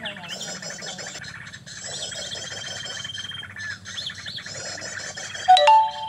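Small birds chirping and trilling over and over, with a steady high whistle held for about a second and a half a couple of seconds in. Near the end comes a short, loud burst: a sharp click with lower held tones, the loudest sound in the stretch.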